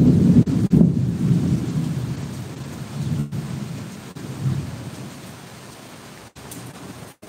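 Heavy rain falling steadily, with a low rolling rumble of thunder that is loudest at the start and dies away over the next few seconds. The sound drops out briefly near the end.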